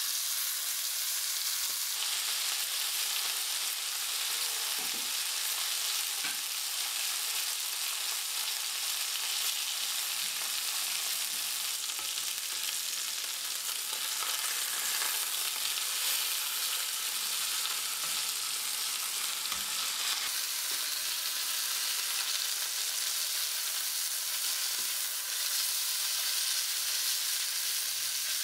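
Chicken breasts frying in butter and vegetable oil in a skillet: a steady sizzle, with a few faint knocks as tongs turn the pieces.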